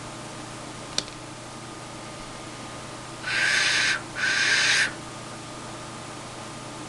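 A hand-made clay duck whistle, still unfired, blown twice in short blasts of under a second each. It gives a breathy, hissy whistle with a lot of air noise over a low steady tone, the sound of a whistle whose voice has been spoiled and is not yet tuned.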